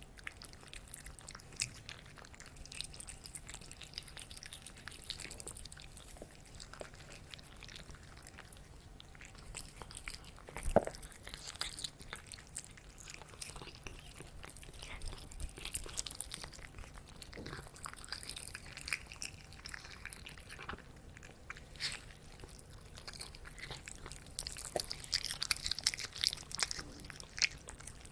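Cat eating: many small chewing and crunching clicks, with a few short noises from the cat in between. The loudest of these comes about eleven seconds in.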